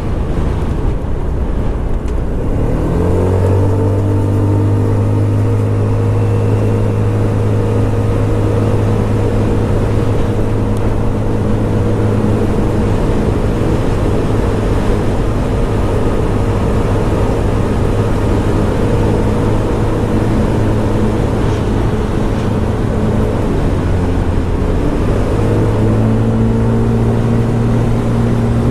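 Scomadi TT125 scooter's 125cc engine under way on the road, over a steady rush of road and wind noise. About two and a half seconds in its pitch rises quickly as it picks up speed, then holds steady at cruising speed, and it climbs again near the end.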